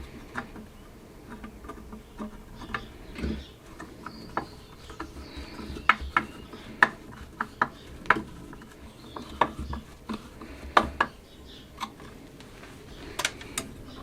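Irregular light clicks and taps of small metal parts and hand tools being handled on a workbench, about a dozen sharp ones coming thickest in the middle.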